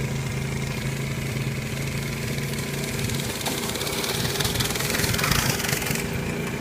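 Small off-road vehicle engine idling steadily.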